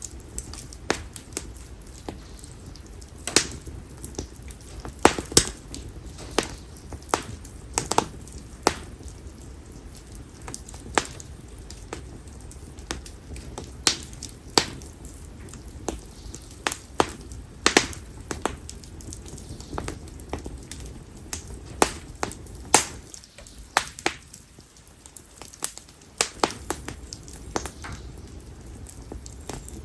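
Konara oak firewood burning in an open bonfire, crackling and popping with many sharp, irregular snaps over a low, steady rush of flame.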